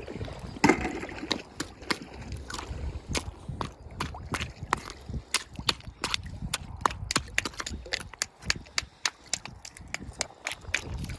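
Oyster shells clacking against each other and against stones as they are handled and sorted, an irregular run of many sharp knocks, several a second.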